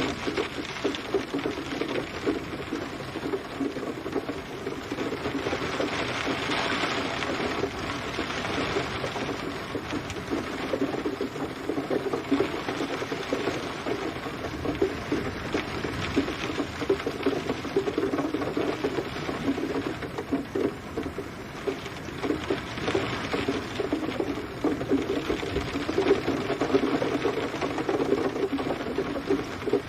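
Steady rain pattering densely on a hard surface: many close drop impacts over a continuous hiss that swells and eases every few seconds.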